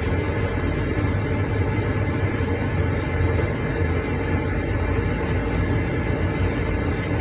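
Steady low rumble of a car driving slowly over a rough track, with engine and road noise and no breaks.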